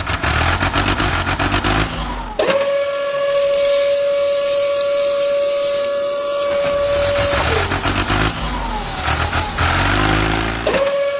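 A small truck's motor giving a steady high-pitched whine for about five seconds, rising in pitch as it starts and dropping as it stops, then starting again near the end. A lower, uneven engine rumble fills the gaps between.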